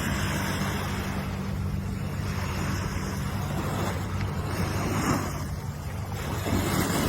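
Ocean surf: waves washing in over a steady low rumble, with two waves swelling up, one past the middle and one near the end.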